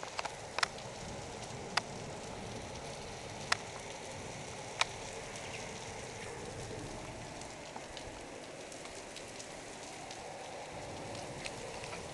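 Heavy thunderstorm rain pouring onto rooftops and a tiled terrace: a steady, even hiss, with a few sharp ticks of drops striking close by.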